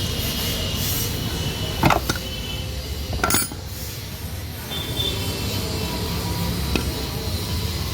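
Metal tools clinking against scooter parts, two sharp clinks about two and three and a half seconds in and a fainter one near the end, over a steady low rumble.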